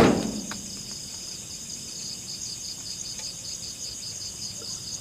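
Night insect chorus, a steady, pulsing high-pitched trill. At the start, the tail of a loud noise dies away within about half a second.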